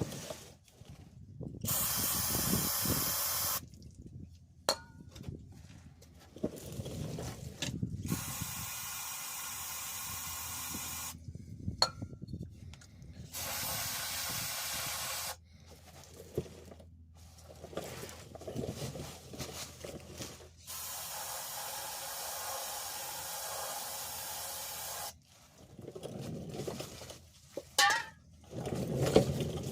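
Aerosol lubricant sprayed in four separate bursts of roughly two to four seconds each, each a steady hiss that starts and stops sharply. Short clicks and handling noises come between the bursts.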